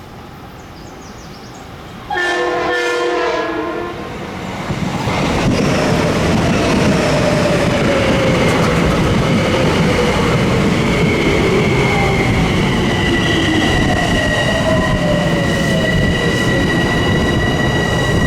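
A Metro-North commuter train sounds a short horn blast about two seconds in, then comes through close by. Loud wheel-on-rail noise builds, with steady high-pitched whines and a lower tone that slides slowly down in pitch.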